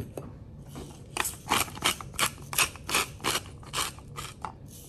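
Salt grinder being twisted: a run of about ten grinding clicks, some three a second, starting about a second in.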